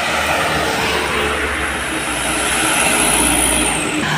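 A heavy diesel truck passing close by: a loud, steady engine and tyre rumble, with a high whine that falls in pitch near the end as it goes past.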